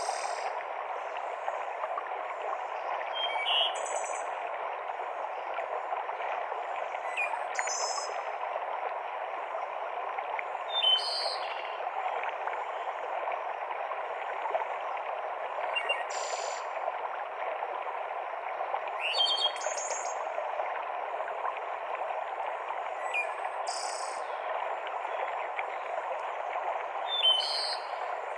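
Steady rush of a mountain stream cascading through forest, with short, high bird calls breaking in about every three to four seconds.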